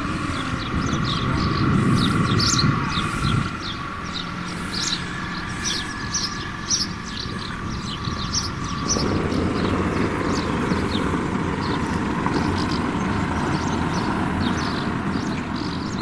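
Small birds chirping over and over, several calls a second, above a low steady outdoor rumble; the background changes abruptly about nine seconds in.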